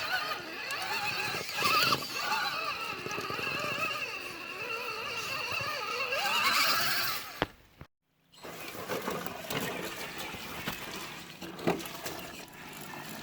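Electric motor of an RC truck whining, its pitch rising and falling with the throttle as the truck churns through thick mud. The sound cuts out briefly a little past the middle, then the motor whine goes on.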